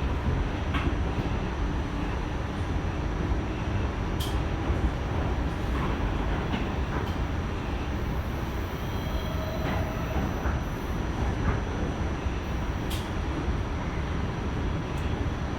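New York City subway train running, a steady rumble with a few sharp clicks and a faint brief whine a little past halfway.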